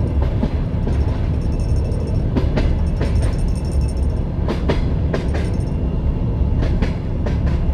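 Passenger train wheels clacking over rail joints, the clacks coming in quick pairs every second or two over a steady low rumble of the moving carriage. A faint high ringing runs through the middle.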